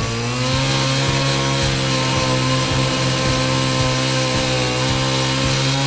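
Small engine running steadily at high revs; it rises slightly in pitch as it opens up at the start, then holds a constant drone.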